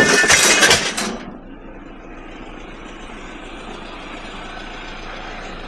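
Loose scrap metal clattering and clanking as it is dropped onto a truck, for about the first second, then a steady background rumble.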